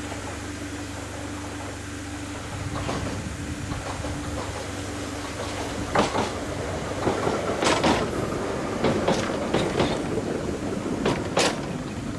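Island Line Class 483 electric train (former London Underground 1938 tube stock) approaching and running past close by. Its wheels clack sharply over the rail joints, several times a second, from about halfway through.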